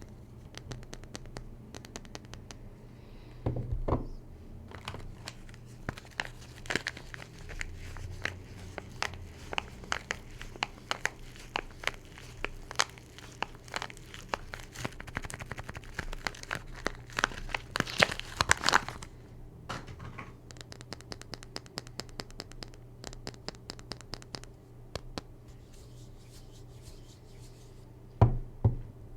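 Soap packaging being unwrapped by hand: wrappers crinkling and tearing in a busy run of crackles, with a couple of dull knocks, one near the start and one near the end.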